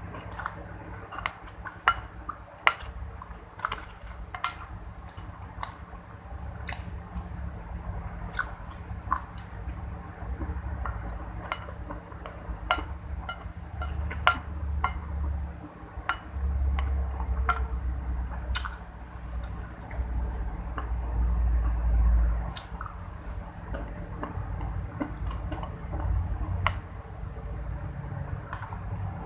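Eating sounds: a spoon and fork clicking and scraping irregularly on a plate, over a low rumble that swells in the middle and then fades.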